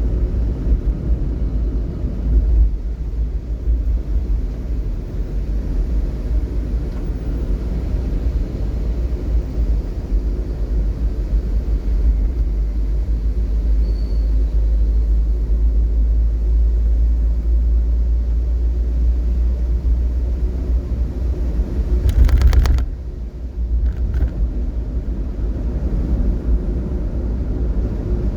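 Steady low rumble of a vehicle travelling in slow traffic, with a short, loud rattling sound about three quarters of the way through.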